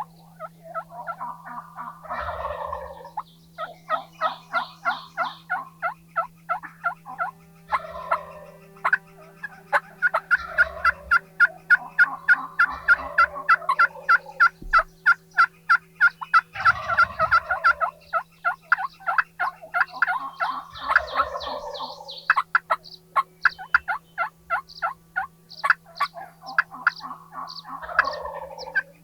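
Wild turkey gobblers gobbling several times, a few seconds apart, over long runs of rapid, sharp turkey yelps and cutting at several notes a second. A steady low hum runs underneath.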